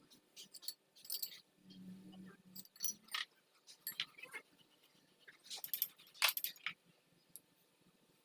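Light metallic clinks and taps of tools and engine parts being handled during assembly of a Toyota 2J forklift engine. The clinks are scattered and come in clusters, busiest just past the middle, with a brief low hum about two seconds in.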